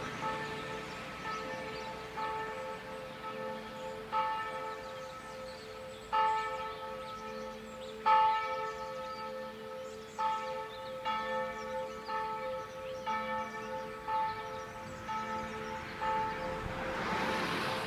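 Church bells ringing in a steady run of strokes, with a heavier stroke standing out about every two seconds.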